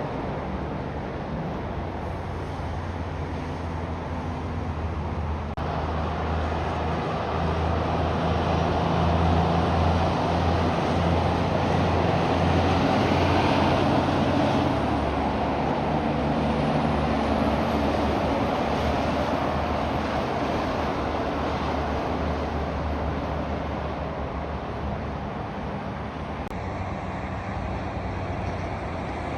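Heavy truck driving past: a steady low diesel engine note with tyre and road noise, building to its loudest in the middle and then fading.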